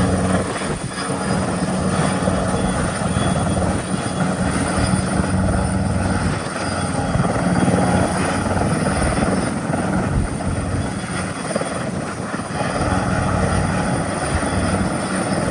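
Helicopter running close by, its rotor beating steadily with a steady high whine over it.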